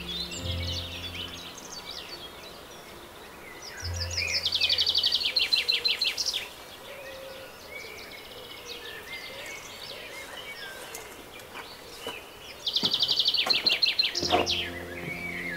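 Songbirds singing and chirping. A loud, rapid trilled song rings out twice, about four seconds in and again near the end, each lasting about two seconds. A low, steady hum sits under the birdsong at the start and near the end.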